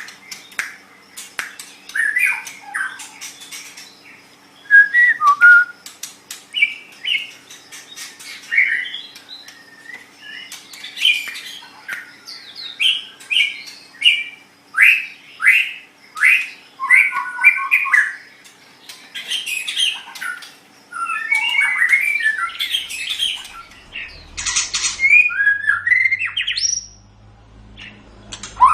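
White-rumped shama (murai batu) singing: a fast, varied string of loud whistled phrases, slurred notes, trills and harsh clicking notes, one after another with short gaps.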